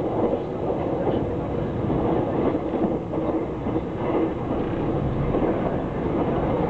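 Steady rumble and rush of a passenger train running at speed, heard from inside the carriage by the window.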